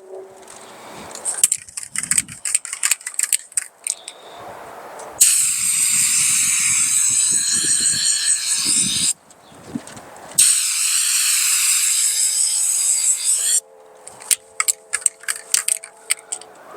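Spray bed liner hissing out of a Turbo Can in two long passes of about four and three seconds, with the can rattled in quick shakes before and after the spraying.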